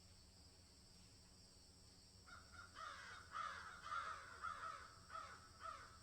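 A bird calling: a quick run of about seven short calls, each falling in pitch, starting a little over two seconds in, over a faint steady high hiss.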